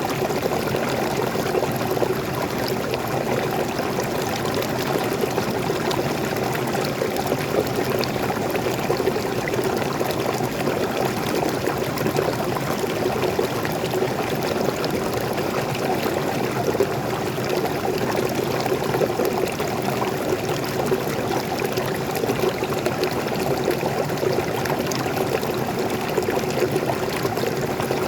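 Waterfall: fresh water falling and running steadily, an even rushing sound that stays the same throughout.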